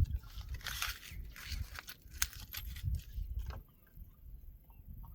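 Scattered clicks, scrapes and rustling of hands handling small parts and tools, busiest in the first three seconds and quieter after that.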